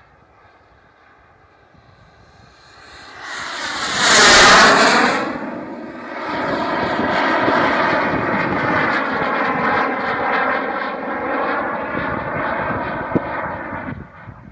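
Turbojet engine of a radio-controlled Eurofighter model jet passing close and loud, its pitch falling as it goes by about four seconds in, then running steadily with a high whine for several seconds before dropping away near the end.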